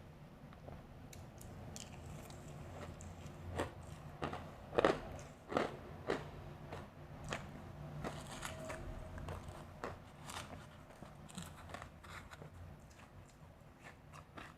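Blended grape-soda ice being bitten and chewed with soft crunches, a run of short crunching strokes with the loudest bites about four to six seconds in.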